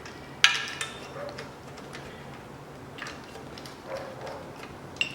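A few sharp metallic clinks and taps of steel bolts and a hand tool as a bracket is bolted onto an engine's oil pan, the loudest about half a second in with a brief ring.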